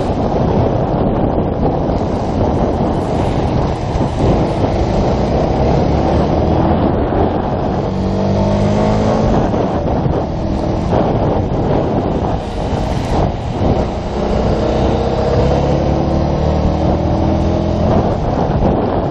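Yamaha YZF-R125's 125 cc single-cylinder engine pulling under acceleration, its pitch rising about halfway through and again near the end, under heavy wind buffeting on the microphone.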